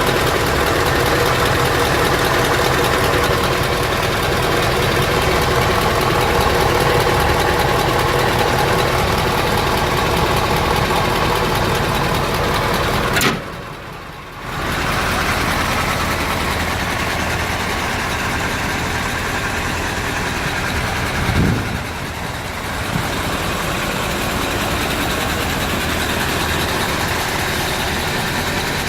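Mercedes-Benz 2628 6x4 tipper truck's diesel engine idling steadily. The sound drops away abruptly for about a second roughly halfway through, then the idle resumes; a short rising note comes about two-thirds of the way in.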